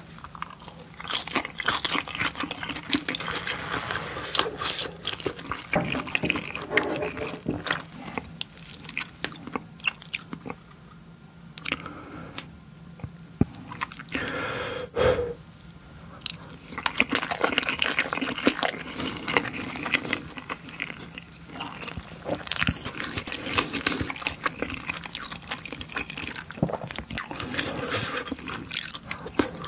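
Close-miked eating of spicy tteokbokki: wet, sticky chewing and biting of soft rice cakes in sauce, with many sharp little mouth clicks and smacks.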